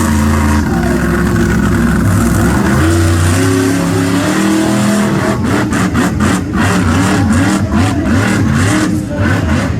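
Monster truck engine revving hard, its pitch climbing and falling as the throttle works. From about halfway the sound turns choppy, with rapid throttle blips and cut-outs.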